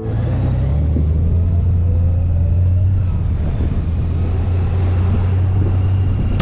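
Honda Gold Wing's flat-six running on the move, with a steady, loud low rumble of engine and wind, and a faint rising tone in the first few seconds as it picks up speed.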